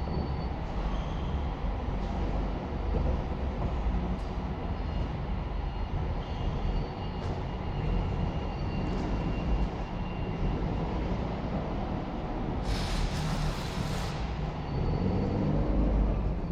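Clamp truck (a large counterbalance forklift with a clamp attachment) running with a steady low rumble and a faint whine. About thirteen seconds in there is a hiss lasting a little over a second.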